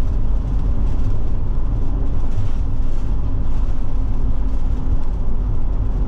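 Forest River Forester motorhome driving at road speed, heard from inside the cab: a steady, loud low rumble of engine and tyre noise with a faint steady hum.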